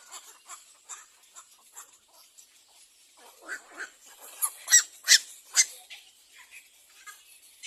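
Little egrets at the nest giving a run of short, harsh calls, a few a second, growing louder and closer together in the middle before tailing off.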